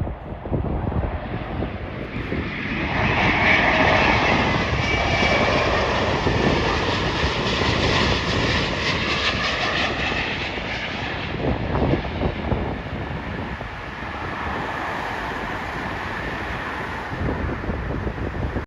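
Arriving jet airliner passing on approach to land: a rushing engine noise with a whine swells to its loudest about four seconds in, then slowly fades. Gusty wind rumbles on the microphone throughout.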